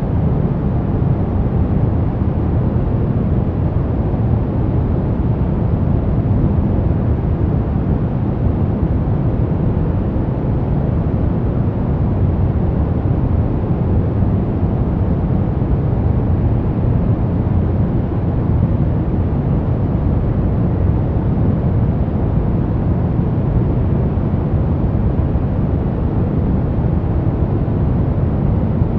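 Steady, even rumbling noise, heaviest in the low range, running without any break, swell or distinct event.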